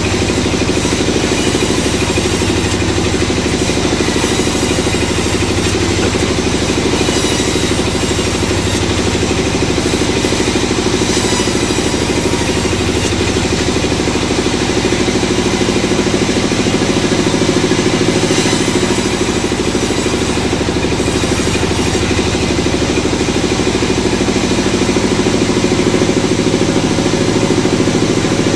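Engine running steadily at a constant speed, typical of the motor that drives a sawmill's saw.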